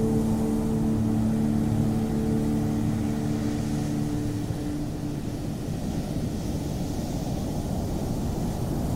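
Ocean surf making a steady low rumble with wind. A few sustained musical tones, like a singing bowl, fade out about four to five seconds in.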